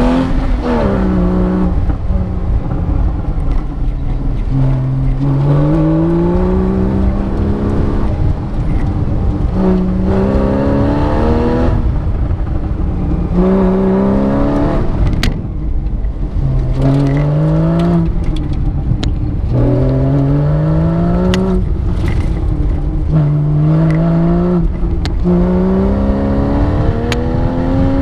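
Porsche engine heard from inside the cabin on an autocross run, accelerating hard over and over in short pulls that rise in pitch, then dropping away as the driver lifts off for the next corner. A few sharp clicks come through over the engine.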